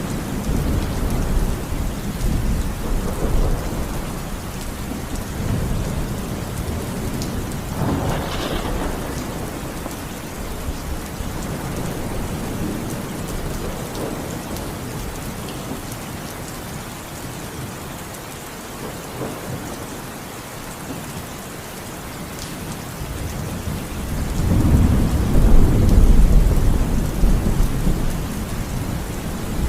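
Steady rain falling, with thunder rumbling through it: a sharper crack about eight seconds in, and a long, loud low rumble building up near the end.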